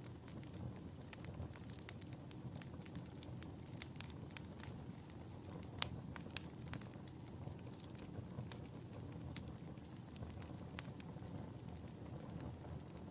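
Wood fire crackling in a fireplace: a steady low rush with scattered sharp pops and snaps, the loudest about six seconds in.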